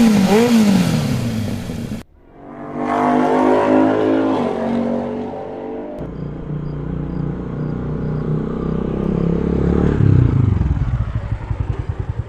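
Edited motor-vehicle engine sound effects, cut together in pieces. A wavering, warbling wail comes first. After an abrupt cut about two seconds in, an engine runs and revs. Another cut at about six seconds brings a deeper rumbling engine, which turns into a fast chugging pulse near the end.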